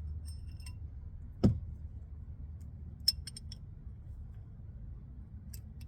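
Light metallic clinks of hand tools being handled while getting at the oil filter, with one dull thump about a second and a half in and a few sharper clinks about three seconds in. A steady low hum runs underneath.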